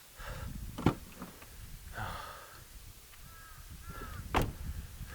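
Two sharp slams about three and a half seconds apart, the second the louder, with low knocking and handling noise between: car doors being shut on a fully packed car.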